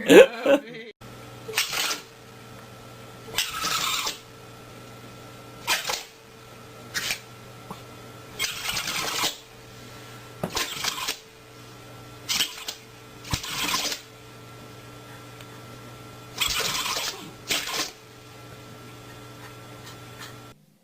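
A dog sneezing over and over, about a dozen short sneezes with a few seconds between them, several coming in quick pairs, over a steady electrical hum.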